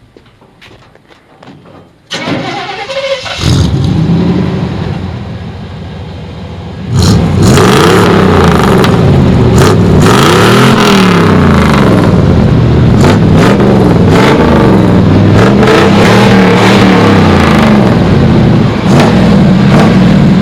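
1990 Chevy C1500's 305 V8 with throttle-body injection, running through a Cherry Bomb muffler: it is cranked and starts about two seconds in, idles briefly, then is revved up and down repeatedly from about seven seconds in.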